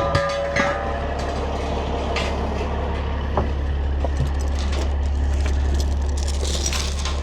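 Truck engine idling steadily, with scattered knocks and clanks.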